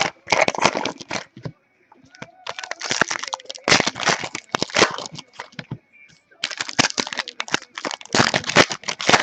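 Football trading-card pack wrappers crinkling and crackling as packs are torn open and the cards handled, in three bursts of rapid crackles.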